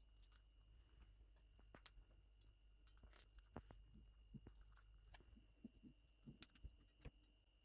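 Faint, irregular clicking and crunching of a quaker parrot's beak husking and nibbling melon seeds.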